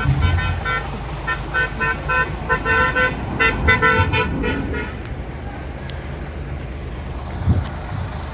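Vehicle horn tooted in a rapid string of short pitched blasts, several a second, for about five seconds, over steady engine and road rumble. The horn stops about five seconds in, leaving the rumble.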